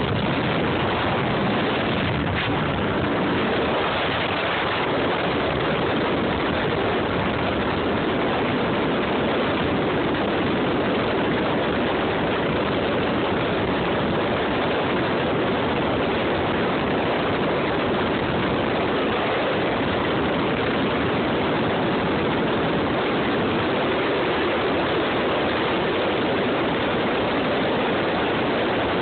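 Steady rushing noise of wind and water, as when riding a jet ski across a river, with no distinct engine tone standing out.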